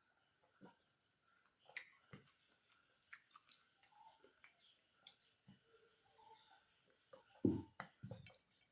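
Close-miked chewing and mouth clicks of someone eating beef biryani, with scattered small clicks throughout and a louder low thump about seven and a half seconds in.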